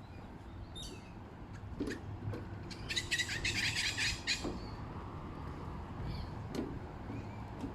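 Birds calling: a short high call about a second in, then a loud, harsh chattering burst lasting about a second and a half around three seconds in, over a steady low rumble.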